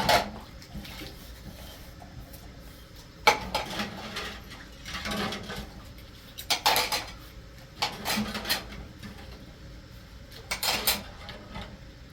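Hard household objects clattering and clinking in short, separate bursts: a sharp clatter at the start, then several more every second or two, like dishes being handled.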